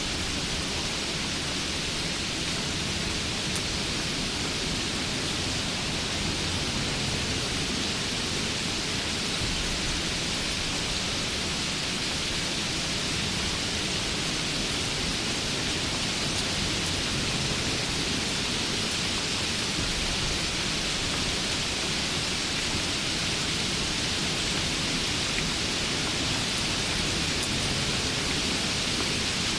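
Steady rain, an even unbroken hiss, with a low rumble underneath it.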